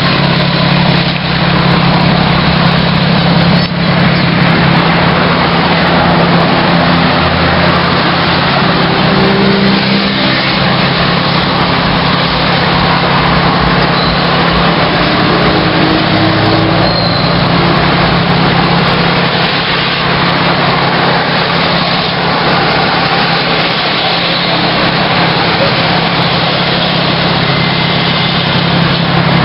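Steady loud car noise: engine and road rumble with a constant noisy hiss over it, and no clear revving.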